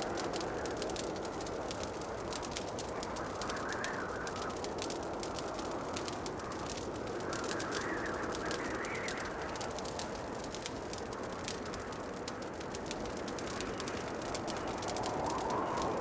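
Fireplace wood fire crackling, with dense small pops and snaps. Beneath it runs a steady rushing sound that swells and fades every few seconds.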